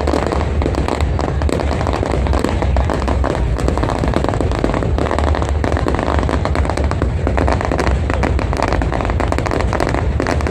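Fireworks going off in a dense, continuous barrage: many rapid, overlapping bangs and crackles over a low rumble, with no pause.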